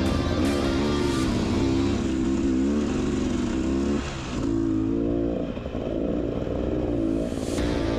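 Beta Xtrainer 300 two-stroke dirt bike engine running under throttle on a trail ride, the revs wavering up and down, dropping briefly about halfway through and then picking up again.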